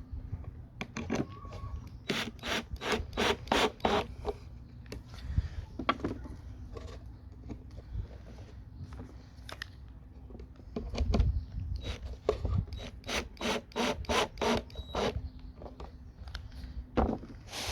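Rhythmic back-and-forth strokes of a hand tool on wood, about four a second, in two runs of a few seconds each, with some duller knocks between them.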